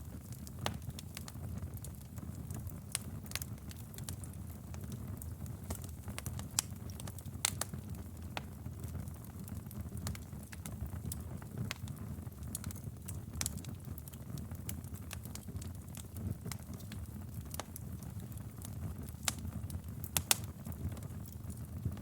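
Wood fire crackling in a fireplace: scattered sharp snaps and pops over a low steady rumble of the flames, with a few louder pops.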